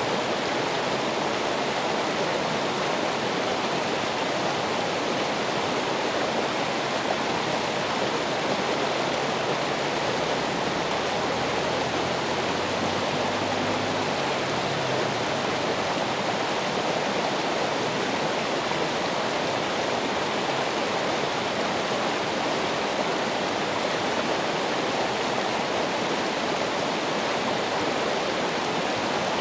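Steady, unbroken rush of running water from a natural stream.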